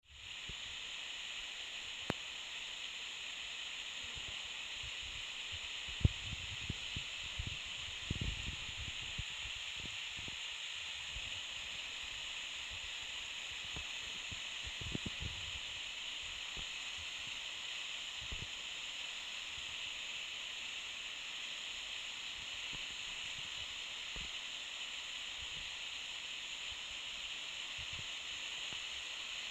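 Waterfall rushing with a steady hiss, with a few brief low bumps of handling noise in the first half.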